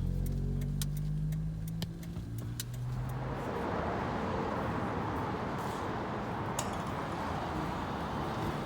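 Car engine idling with a low steady hum and a few clicks. About three seconds in the hum stops and a steady rushing noise takes over.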